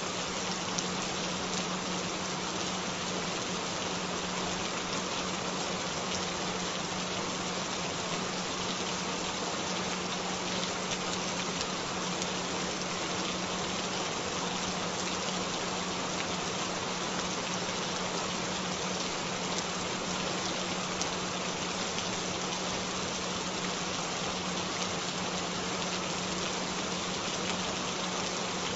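Steady rain, an even hiss of drops, with a continuous low tone held underneath. The tone is a binaural-beat style frequency meant for headphone listening.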